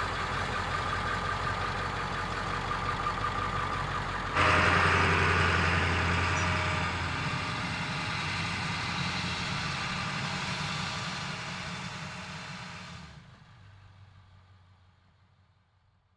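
Diesel pickup truck's engine running steadily with a low hum. It jumps suddenly louder about four and a half seconds in, then fades away over the last few seconds.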